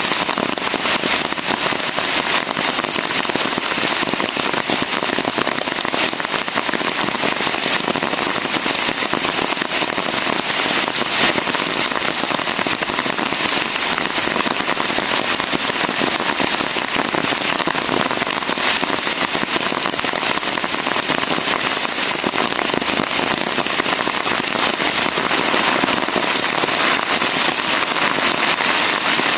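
Steady heavy rain: a constant hiss of falling water with a dense, crackly stream of sharp individual drop hits close by.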